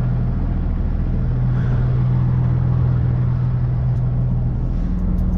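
Heavy diesel engine idling steadily with a deep hum; its tone shifts slightly near the end.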